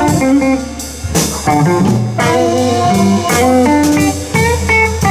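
Live electric blues band playing an instrumental stretch between vocal lines: guitar notes with bends over a steady bass line and drums.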